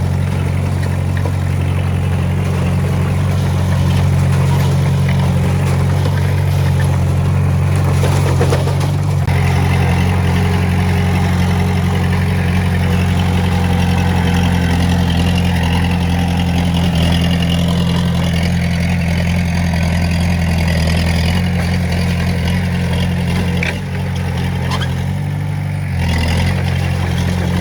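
Heavy-equipment diesel engine running steadily under working load, its pitch shifting a little about nine seconds in and dipping briefly near the end.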